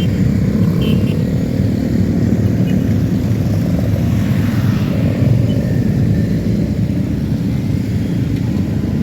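A large mass of motorcycle engines running together, a loud, dense, steady rumble.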